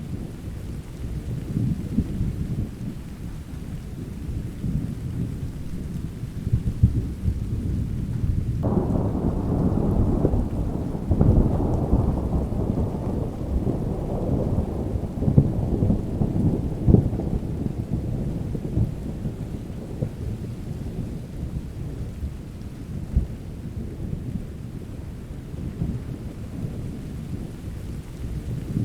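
Thunderstorm: steady rain with a low, continuous thunder rumble. About nine seconds in a louder roll of thunder begins suddenly and fades away over the following several seconds.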